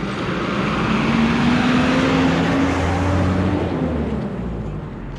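A motor vehicle driving past, its engine and road noise swelling and then fading away.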